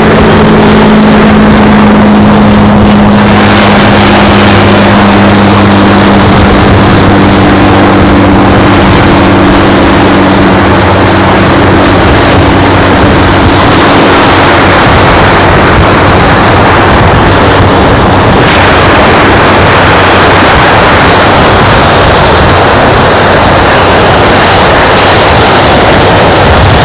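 Loud, steady rushing of wind and surf at the shore, brightening about two-thirds of the way in. Over it, the low drone of a passing engine fades out over the first dozen seconds.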